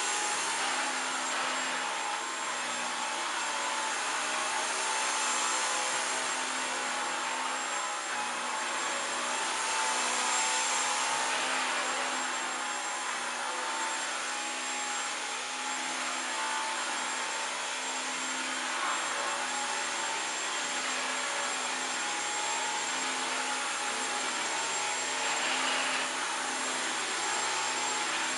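Dyson V15 Detect Absolute cordless stick vacuum running on its eco power setting: a steady motor whine over a rushing airflow hiss, with small swells in level.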